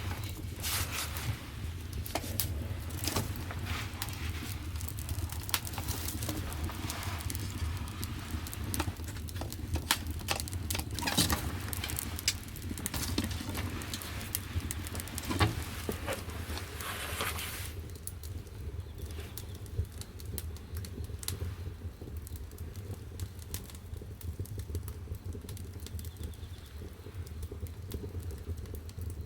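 Firewood burning in a wood-fired bath's firebox: frequent crackles and pops over a steady low roar of the fire. About two-thirds of the way in the crackling thins out sharply, leaving mostly the low roar.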